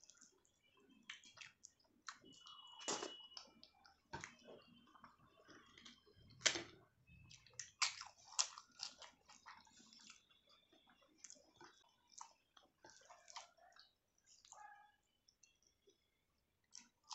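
Close-miked eating: a person chewing and biting food, heard as irregular small clicks and crackles, a few sharper ones from about six to eight seconds in, then nearly silent shortly before the end.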